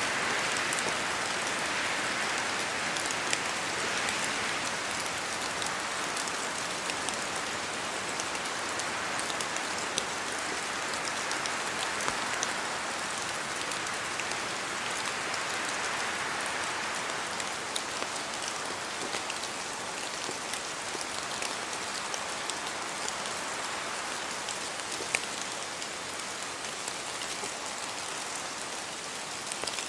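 Steady rain falling in a forest, with scattered drops ticking off the trees. The hiss of the rain swells and eases every few seconds as the wind moves through.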